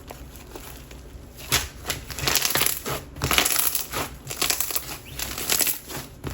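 Jelly slime packed with lava rocks being squished and pressed by hand. After a quiet first second and a half comes a steady run of sharp wet squishing sounds.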